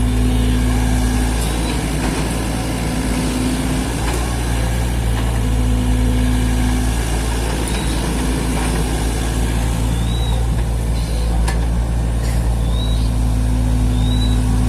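Mini excavator's engine running steadily at work, with a higher whine that comes and goes every second or two.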